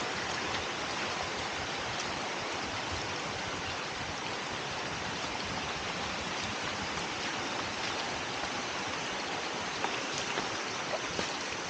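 Stream water flowing steadily across a forest walking path, an even rushing hiss of running water, with a few faint ticks near the end.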